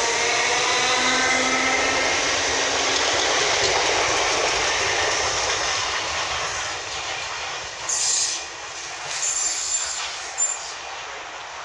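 Southern Class 377 and Class 455 electric multiple units running through the station: loud wheel-on-rail rumble and clatter, with a motor whine rising in pitch over the first couple of seconds. The noise fades after about six seconds as the trains recede, and there are three brief high squeals near the end.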